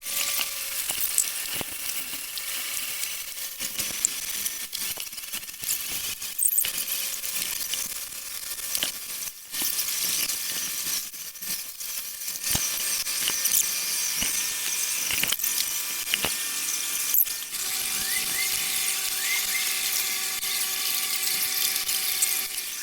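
Workshop tool noise: a steady high-pitched hiss and whine with scattered clicks and taps of tools on metal, joined by two steady tones about three-quarters of the way through.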